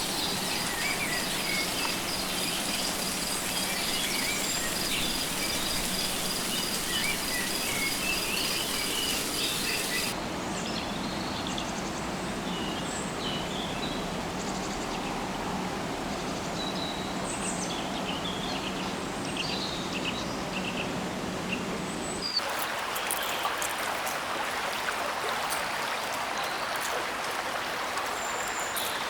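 Tropical rainforest ambience in abrupt sections: a steady pulsing insect buzz with chirping bird calls, then about ten seconds in a thinner bed of scattered bird calls, then, about two thirds of the way through, a steady hiss of running water with small clicks.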